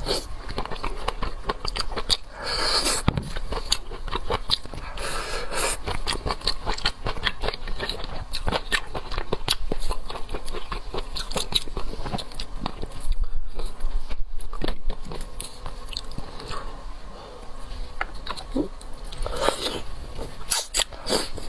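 Close-up chewing, biting and wet mouth sounds of a person eating a large cooked oyster, with many small irregular smacks and clicks.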